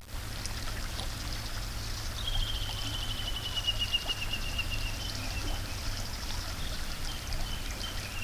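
River water trickling and flowing steadily, with a low rumble underneath. About two seconds in, a bird gives a long fast trill lasting about three seconds and falling slightly in pitch; a few short calls follow near the end.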